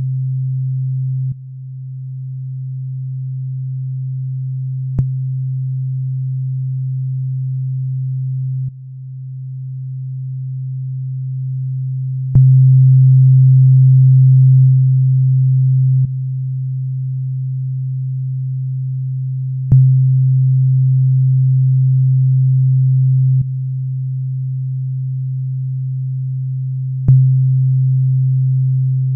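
Low, steady sine-wave test tone run through FL Studio's Fruity Compressor as its attack and release are changed. The level steps with a small click every few seconds: after some clicks it dips and swells slowly back up, and after others it jumps louder with a short peak that settles.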